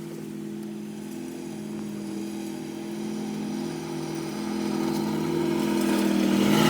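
A vehicle engine humming at a steady pitch and growing steadily louder, as from a vehicle drawing closer.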